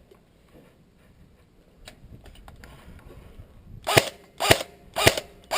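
Airsoft gun firing four single shots in quick succession, about two a second, each a sharp crack.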